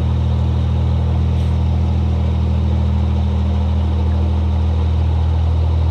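Narrowboat's diesel engine running steadily at cruising speed: a constant low hum with no change in pitch or level.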